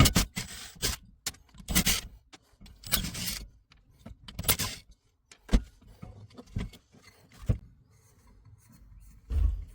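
Irregular rustling, scraping and clinking of a diesel heater's metal parts being handled and pulled apart, with a few sharp knocks in the second half.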